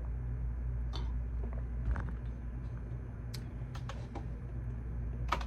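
Scattered, irregular computer keyboard keystrokes, with a short louder run of keys near the end, over a steady low hum.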